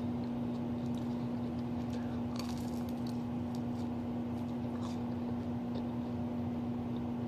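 A person chewing food, with a few faint crunchy clicks about two and a half seconds in and again near five seconds, over a steady electrical hum.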